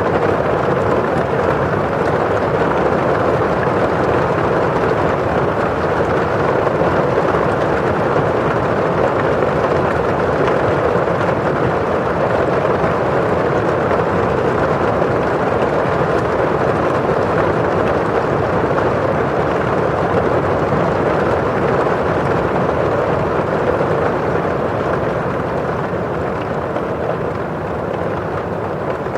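Steady rain pattering on a windowpane, with the rush of rain falling outside: an even noise with no separate drips standing out, easing slightly near the end.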